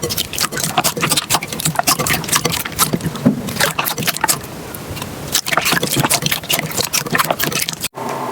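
Slime being pressed and worked by hand, making dense, irregular crackling pops and clicks, with a brief break near the end.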